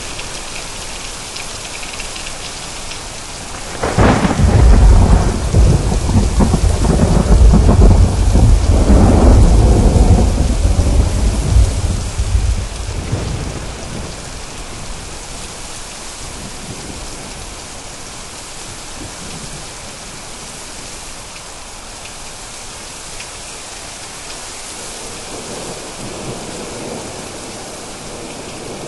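Steady heavy rain, with a loud peal of thunder that cracks in sharply about four seconds in, rumbles for around nine seconds and fades away.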